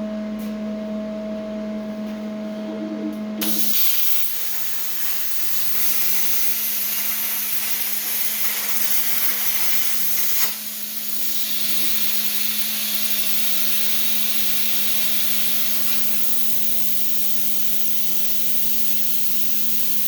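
Plasma cutter running on an ArcDroid CNC: a steady electrical hum, then about three and a half seconds in the arc strikes and a loud, steady air-plasma hiss begins as the torch cuts through the cast-metal stove door. About ten seconds in there is a sharp click, after which the hiss runs on slightly quieter.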